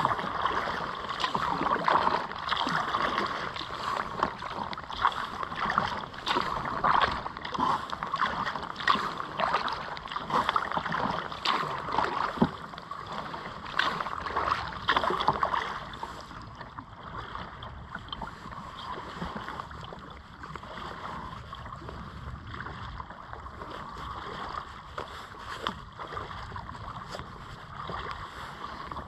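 Kayak paddle strokes dipping and splashing in the river water, with drips off the blades; the splashing is busier for the first half and quieter after about sixteen seconds.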